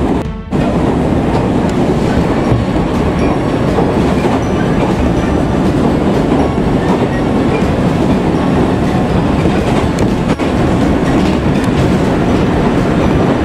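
Train running at speed on the rails: a steady rumble of wheels on track with faint regular clicks. The sound dips sharply for a moment about half a second in.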